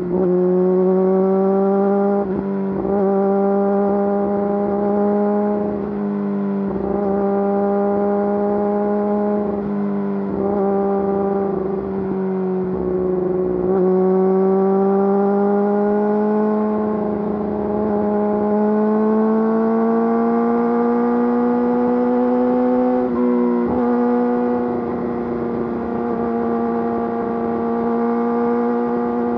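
Yamaha YZF-R6's inline-four engine running through an Akrapovič full exhaust at steady, fairly high revs under way. The note climbs slowly and dips briefly several times as the throttle is rolled off and reopened.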